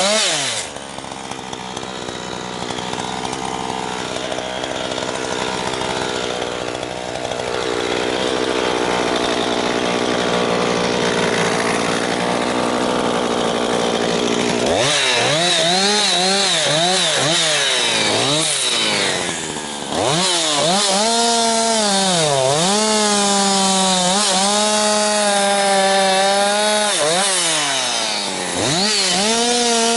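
Jonsered 2156 two-stroke chainsaw, with a freshly rebuilt Walbro carburettor. It runs at a lower, steadier speed for about fifteen seconds after a brief rev, then goes to full throttle cutting firewood. Its pitch dips and recovers as the chain loads in the wood, with two short drops in revs.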